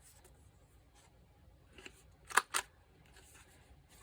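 Handheld paper stub punch clicking as it is pressed through paper: a faint click, then two sharp clicks in quick succession about two and a half seconds in.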